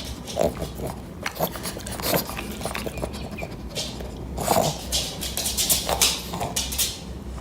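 A pet animal making noise, among irregular knocks and scuffles.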